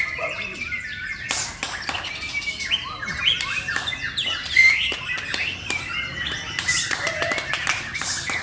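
Male white-rumped shama singing a rapid, varied song of whistled glides and sharp clicking notes.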